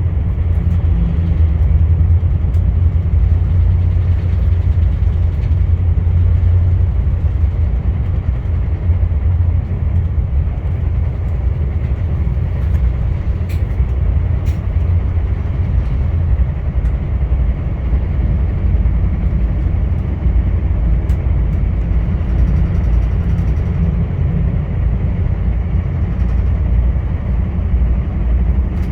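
Via Rail passenger train running along the track, a steady low rumble of wheels on rails and running gear, with a couple of faint clicks about halfway through.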